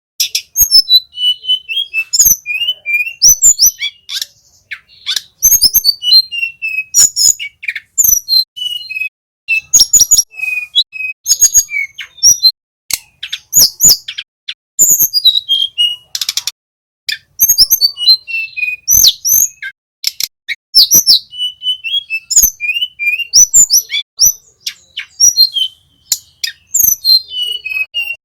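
Small flycatcher songbird singing in quick phrases of sharp, high chirps and short whistled slides, with brief pauses between phrases.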